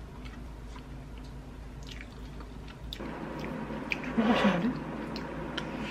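Close-up eating sounds: a person chewing a mouthful of rice, with faint clicks of a wooden spoon in a ceramic bowl. The chewing is loudest about four seconds in.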